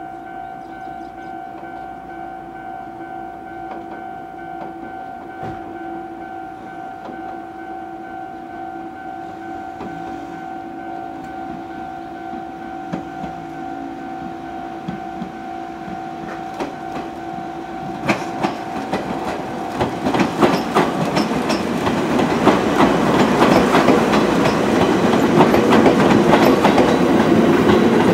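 A steady droning tone, then a train growing loud about two-thirds of the way in, its wheels clacking rapidly over the rails.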